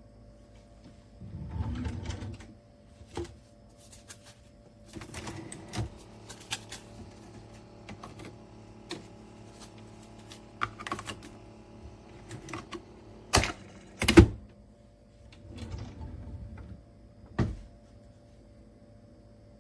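Objects being handled: irregular clicks and knocks with short rustling stretches, the sharpest two knocks about two-thirds of the way through, over a faint steady hum.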